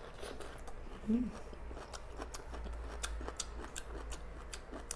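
Close-up eating sounds of biting and chewing tender bamboo shoots: a steady run of small crisp crunches and wet clicks, several a second. A short hummed voice sound comes about a second in.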